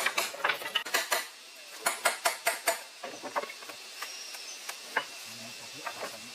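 Rapid sharp taps or knocks, about six a second, that stop about a second in; a short run of taps follows near two seconds, then a few scattered single clicks.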